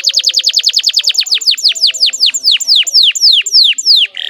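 Domestic canary singing a trill of high notes that each sweep steeply downward, fast at first and then slowing as the notes lengthen and drop lower, followed by a short buzzy note near the end.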